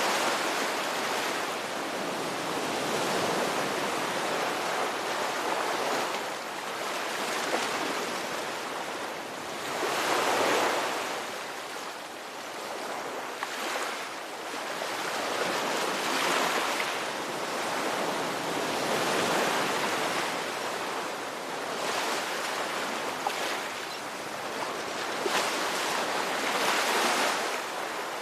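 Ocean surf: waves breaking and washing in as a continuous rush that swells and eases every several seconds.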